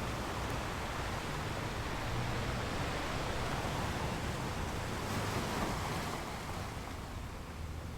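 Ocean waves breaking on a beach, a steady wash of surf that swells and eases slowly, fading a little near the end.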